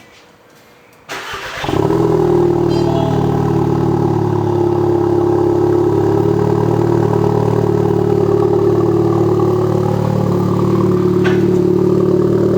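Audi S3's turbocharged 2.0-litre four-cylinder with a Billy Boat full exhaust, started about a second in, then idling steadily.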